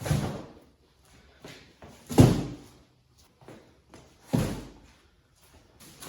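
Three heavy thumps about two seconds apart, each dying away over about half a second.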